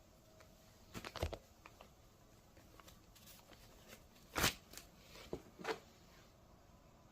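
A few scattered handling noises, short knocks and rustles of materials being moved by hand, a cluster about a second in and the loudest about four and a half seconds in.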